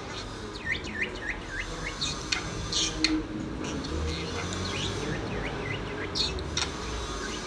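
A small pet parrot chirping and twittering: a run of quick short chirps with a few louder, sharper calls among them.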